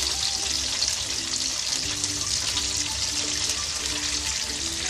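Tofu sizzling as it fries in shallow oil in a wok, a steady hiss, with soft background music playing along.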